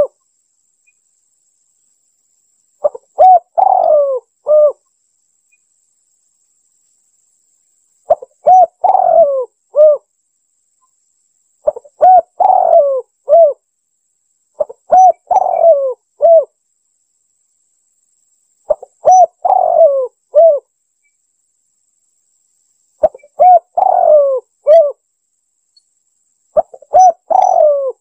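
Spotted dove (tekukur) cooing: seven loud phrases of a few short notes each, about one every four seconds with silence between. A lure call used to draw the doves in.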